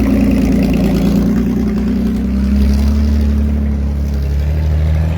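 A loud vehicle engine running, its pitch easing slowly down over a few seconds as it comes off the throttle, then holding steady near the end.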